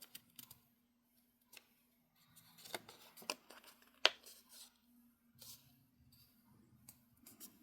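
Craft paper being folded along a scored line by hand: faint scattered rustles and soft crinkles, with a few sharp clicks, the sharpest about four seconds in.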